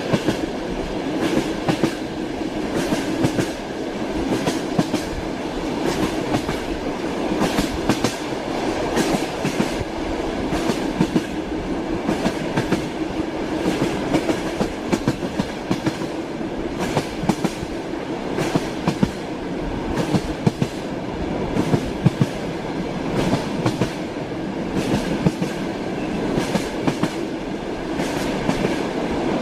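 Train wheels running over the rails of a moving railway carriage, heard from inside the carriage: a steady rumble with a constant run of sharp clickety-clack knocks at the rail joints.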